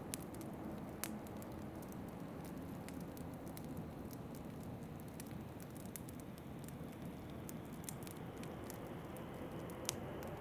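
Wood fire crackling in a fireplace, with scattered sharp pops and ticks, two of them louder (about a second in and near the end), over a steady low rumble of wind.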